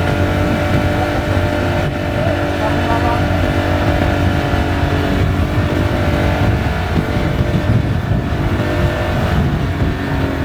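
Motorbike engine running at a steady speed while riding, with heavy wind rumble on the microphone.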